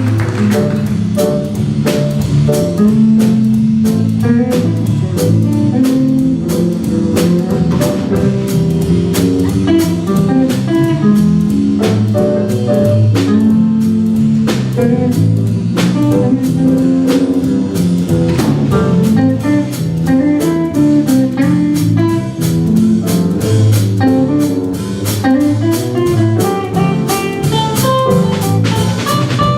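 Student jazz ensemble playing a swing number live, with regular drum hits and a stepping low line under the melody.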